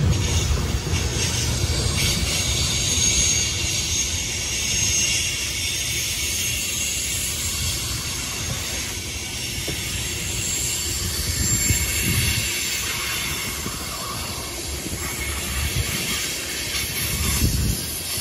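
Freight train of covered hopper cars rolling past, its steel wheels rumbling on the rails, with a faint high-pitched squeal from the wheels.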